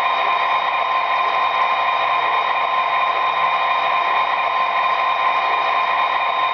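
Sound decoder in an HO-scale Athearn SD40-T model locomotive playing an EMD diesel engine sound, running steadily with a held whine, through the model's small speaker.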